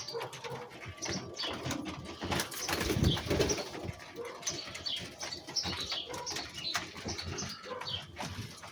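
Penned birds calling softly, with scattered clicks and rustling, and a louder low rustle about three seconds in.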